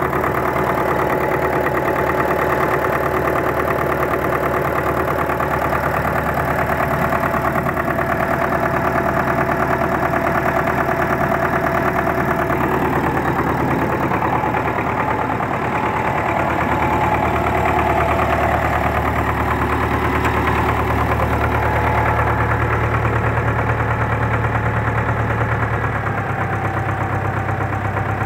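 Four-cylinder D-243 tractor diesel engine idling steadily, test-run on its freshly repaired fuel injection pump.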